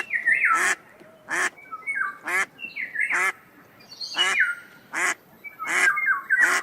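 Ducks quacking, a short call about every second, with higher, thinner calls in between.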